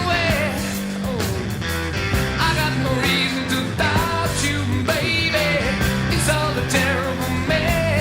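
Rock music with a lead vocal singing over a full band: guitar, bass and drums keeping a steady beat.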